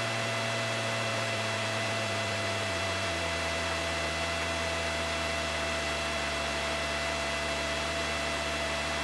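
Steady hiss and hum of a light aircraft's cockpit intercom audio in flight, with a low engine drone underneath that drops slightly in pitch about three seconds in.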